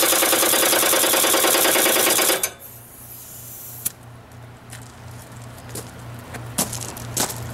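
Power tool grinding the edge of a lawn mower blade, a loud, fast, rough sound that cuts off suddenly about two and a half seconds in. After it only a low steady fan hum and a few light knocks remain.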